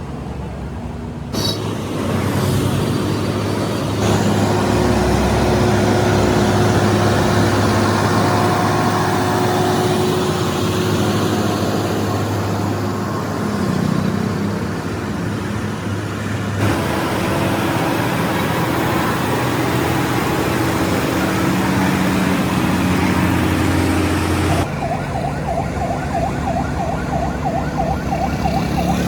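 Heavy vehicle engines running with loud road and traffic noise, across several spliced clips that change abruptly a few times.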